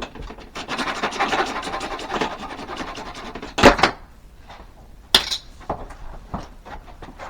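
Quick, dense scraping or rasping strokes for about three seconds, then a loud knock and a second sharp knock about a second and a half later, followed by a few light clicks.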